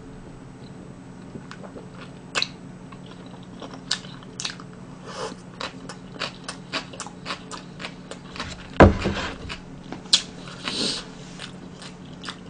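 Close-up crunchy chewing of a slice of pickled yellow radish (danmuji), a run of many short crisp crunches. A single louder thump about nine seconds in.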